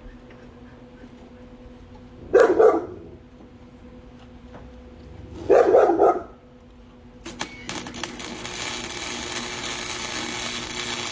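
A dog barks in two short bursts, a few seconds apart. About seven seconds in an electric welding arc strikes with a few crackles and then runs as a steady frying hiss.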